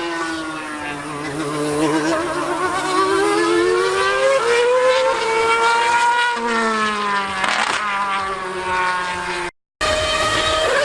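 High-revving racing engine, its pitch sweeping down and up through the gears as it accelerates and lifts. A brief total dropout breaks the sound near the end.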